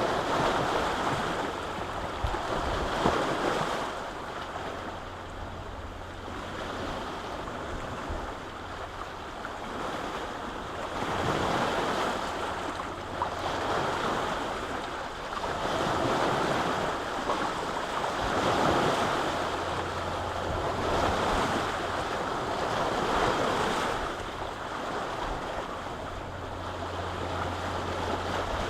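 Lake waves washing onto the shore in repeated swells that rise and fall every few seconds, with wind.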